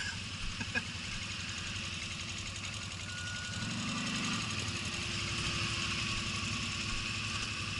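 Vehicle engine idling steadily, getting a little louder about three and a half seconds in.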